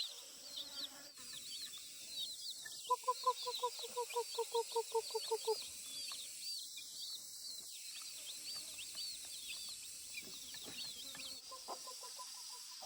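Chickens feeding: high peeping runs on throughout, and a run of about a dozen quick, evenly spaced clucks comes a few seconds in.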